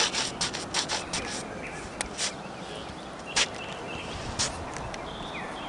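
A series of sharp clicks and knocks, quick and close together for the first second and a half, then single knocks about a second apart.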